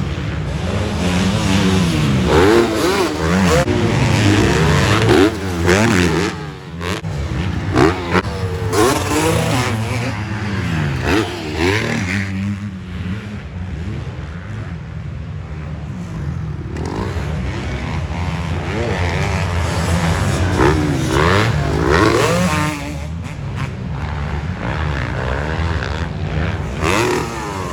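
Several motocross bikes racing, their engines revving up and down in many overlapping rising and falling sweeps as the riders accelerate and shift.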